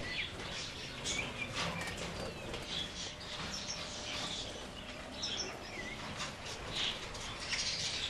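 Budgerigars chirping and chattering, a scattered run of short, high chirps and little warbles.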